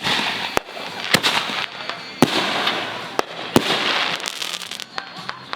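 Consumer fireworks going off: about half a dozen sharp bangs, roughly one every half second to a second, over steady crackling.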